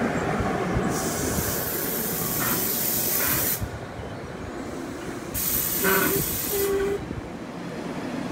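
Electric commuter train's coaches rolling past close by, with two loud bursts of hiss from the train: the first lasting about two and a half seconds, the second shorter, with a brief tone in it.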